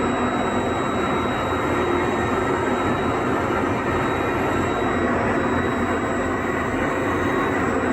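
Steady engine and rushing air noise of an aircraft in flight, with a thin, faint high whine running through it.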